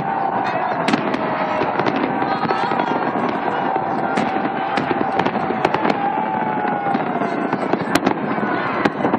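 Fireworks display: dense crackling and popping with many sharp bangs, over crowd voices and a steady, slightly wavering high tone.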